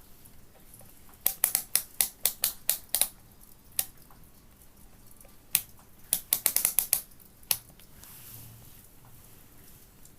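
Sharp clicks in two quick runs of about eight each, with a few single clicks between and after.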